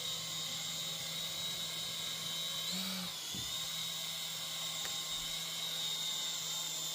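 Small electric RC model AH-64 Apache helicopter's motor and rotors whining at a steady high pitch, the pitch wavering briefly about three seconds in.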